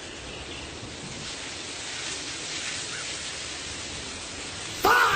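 Steady hissing noise with no clear tone. Near the end, a loud pitched sound with a wavering tone cuts in abruptly.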